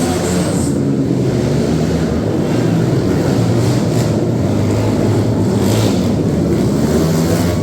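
A loud vehicle engine running steadily, with wind noise on the microphone.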